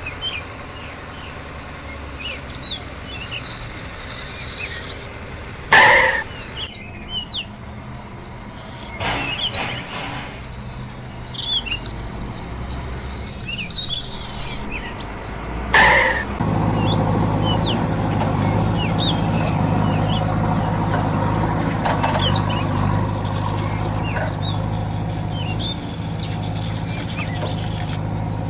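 Small birds chirping throughout, with two short loud bursts of noise about six and sixteen seconds in; just after the second, a heavy vehicle's engine starts running steadily and keeps on.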